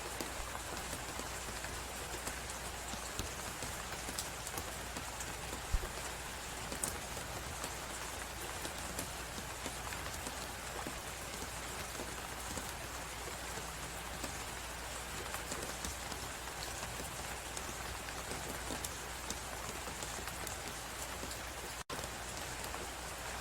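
Wood fire crackling in a fireplace, with many small irregular pops and one sharper pop about six seconds in, over a steady hiss of blizzard wind. The sound cuts out for an instant near the end.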